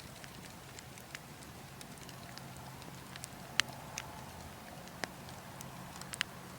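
Burning logs crackling, with sharp irregular pops, the loudest about halfway through and a quick pair near the end, over a steady low rush of wind.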